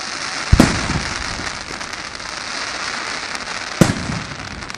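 Fireworks going off: two loud bangs, about half a second in and again near the end, with continuous crackling between them.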